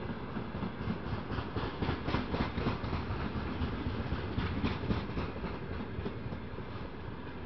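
Freight train wagons rolling past close by: a steady rumble with the wheels clacking over rail joints in quick, irregular runs, busiest through the middle and thinning out near the end.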